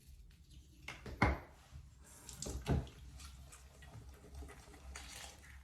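Teeth being brushed at a bathroom sink: two sharp knocks about a second in and just under three seconds in, then a scratchy scrubbing hiss.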